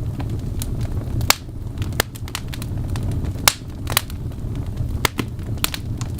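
Wood fire crackling in a fireplace: irregular sharp pops and snaps, about two a second, over a steady low rumble.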